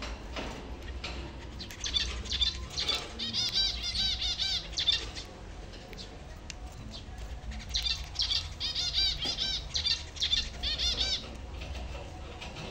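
Zebra finches calling in two bouts of rapid, repeated high chirps, each burst lasting about three seconds.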